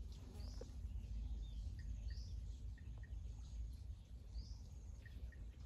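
Birds calling faintly with a few short, high chirps over a steady low rumble of outdoor background noise.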